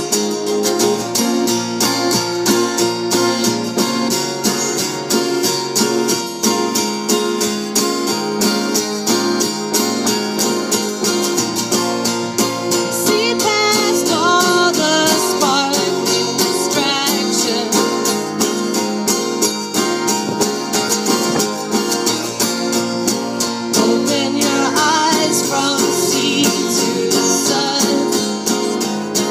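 Music: a strummed acoustic guitar, with a voice singing in places, about halfway through and again near the end.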